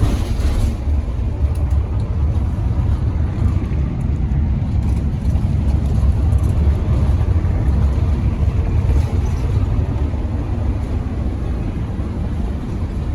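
Converted bus driving on the highway: a steady low engine and road rumble, heard from inside the cab.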